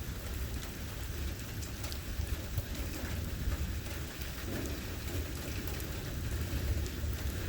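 Heavy thunderstorm rain falling steadily, with a low rumble underneath and scattered faint drop ticks.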